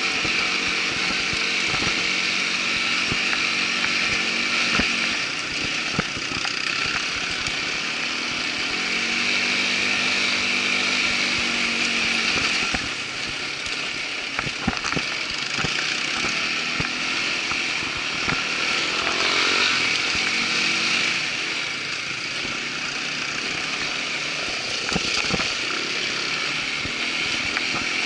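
Irbis ATV 200 quad bike's engine running under way, its pitch rising and falling as the throttle changes, most clearly twice. Scattered short knocks and rattles sound over the engine.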